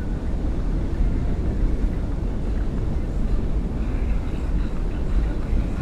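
Boat outboard motor running with a steady low rumble.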